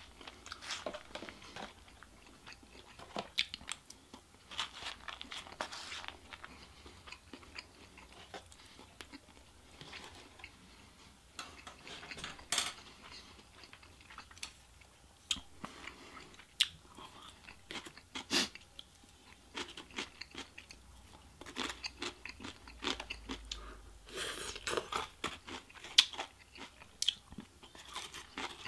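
A person chewing and biting takeout Chinese food close to the microphone, with irregular crunches and clicks.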